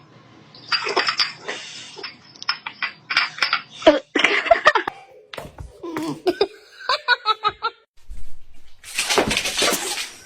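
People laughing in short, choppy bursts, with a quick run of pulses about seven seconds in.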